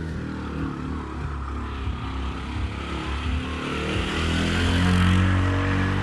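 A motor vehicle's engine running as it passes close by, growing louder to a peak about five seconds in.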